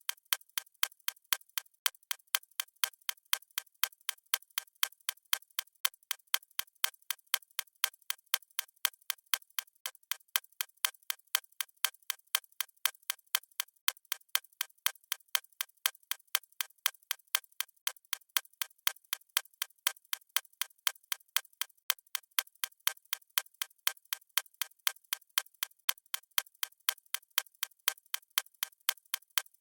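Steady, evenly spaced clock-style ticking: the countdown timer's tick sound effect.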